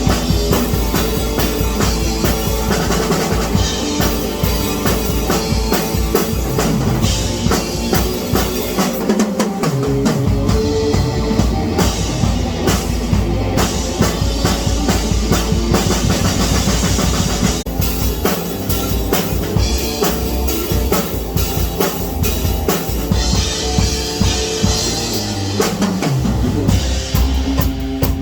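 Loud rock music driven by a drum kit, with bass drum and snare strokes in a steady beat under pitched instruments.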